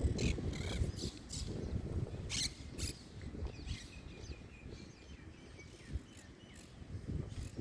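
Park birds calling: a string of short, high chirps and a brief thin whistle, over a low rumble of background noise that eases after the first few seconds.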